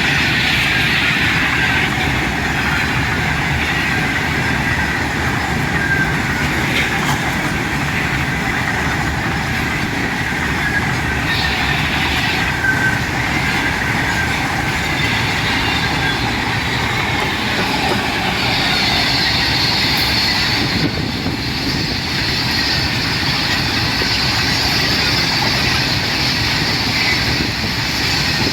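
Freight train running at speed: a steady loud rush of wagon wheels on the rails, with thin high squealing tones that drift in pitch over it.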